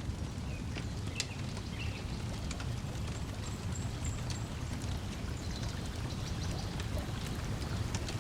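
Wood fire crackling with scattered sharp pops over a steady wash of lake water lapping at the shore, with a few faint bird chirps.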